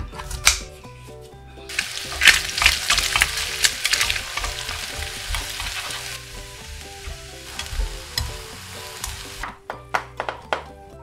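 Spam, kimchi and an egg sizzling in butter in a frying pan, with a wooden spatula stirring and scraping through it. Kitchen scissors snip twice at the start, and near the end the sizzling stops and a few clicks follow as the spatula works in a plastic container; soft background music underneath.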